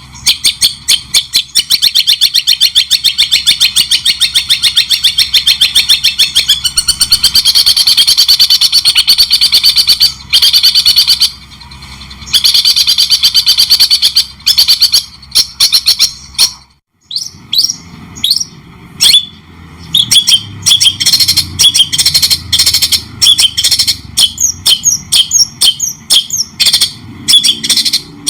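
White-rumped shama (murai batu) singing cendet-style (long-tailed shrike) phrases: long runs of fast, rapidly repeated chattering notes. It breaks off briefly twice, going fully silent for a moment past the middle, then resumes with quick, varied whistled notes.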